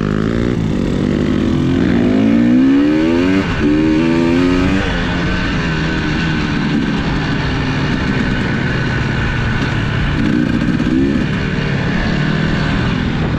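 Off-road vehicle engine under way, revving up in rising pitch over the first few seconds with a drop in between, as if shifting gear, then running steadily, with another short rev about ten seconds in.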